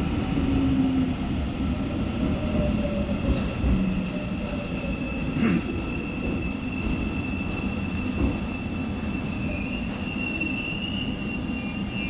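Seoul Subway Line 4 electric train slowing into a station. A steady high squeal runs over the low running rumble, and a motor whine falls in pitch over the first few seconds as the train slows.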